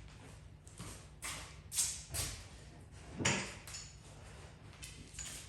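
A few light knocks and clacks of tools being handled, a couple in quick succession about a second in and another about three seconds in, over a faint steady hum.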